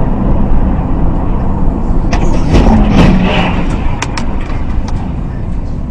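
Loud, steady low rumble of a car on the road, with several sharp knocks and clatters about two to four seconds in.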